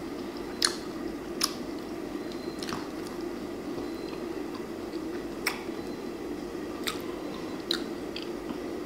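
A person chewing a mouthful of chicken, with short wet lip-and-mouth smacks about every second or two over a steady low hum.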